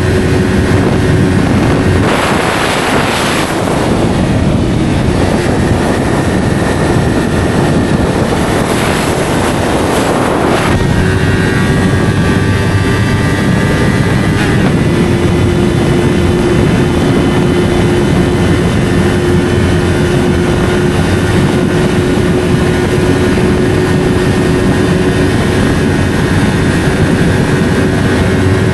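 Yamaha R3's parallel-twin engine running through an SC Project slip-on exhaust, holding fairly steady revs while riding. Rushing wind noise surges twice in the first ten seconds, and the engine note shifts slightly about ten and fifteen seconds in.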